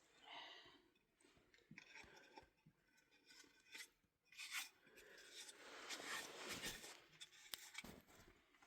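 Faint, irregular rustling and scraping with a few small clicks: small handling sounds close to the microphone.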